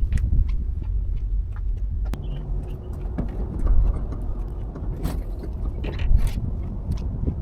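Semi truck's diesel engine idling steadily, with scattered light knocks and clicks.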